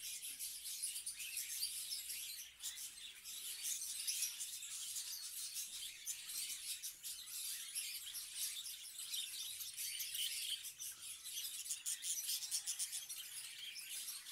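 Many small cage birds chirping and twittering continuously in high-pitched, overlapping calls.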